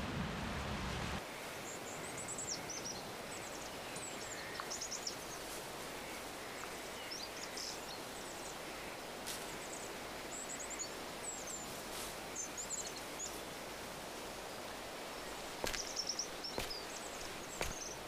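Outdoor ambience of small birds chirping now and then over a steady background hiss.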